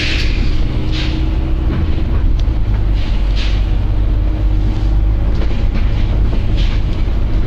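Volvo B9TL double-decker bus running, a steady low diesel and road rumble, with short sharp hisses of air from the brakes and suspension about a second in, near the middle and near the end.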